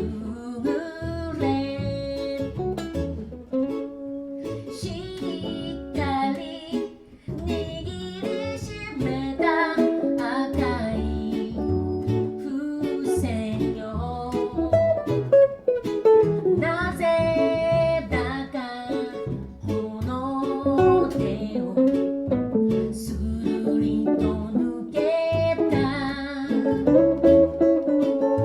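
Live band playing a reggae arrangement of a pop song, with a voice singing the melody over plucked strings and a steady beat.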